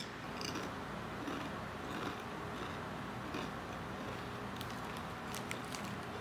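Faint crunches and clicks of someone chewing wavy ham-flavoured potato chips.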